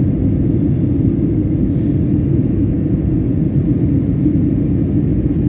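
Airliner cabin noise heard from a window seat: a steady low rumble of engines and airflow during the descent on approach for landing.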